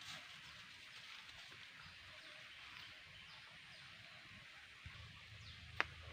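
Faint outdoor ambience with a steady hiss and a few short, falling chirps like small birds calling. A single sharp click or knock comes near the end over a low rumble.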